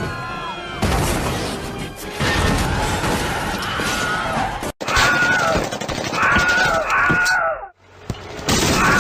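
The Wilhelm scream, a stock man's scream, heard several times in quick succession: each a short high yelp that bends and falls in pitch. It sits over film music, crashes and battle noise, with abrupt cuts between clips.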